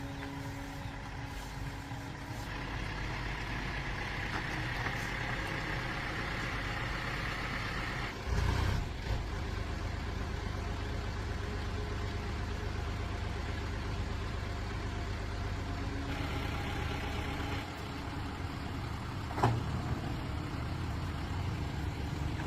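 A truck engine running steadily, with a thump about eight seconds in and a sharp knock near the end.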